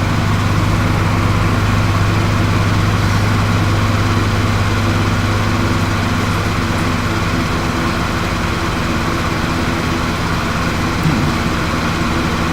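Steady low engine drone of a lawnmower running outside, coming in through an open window, holding an even pitch and level throughout.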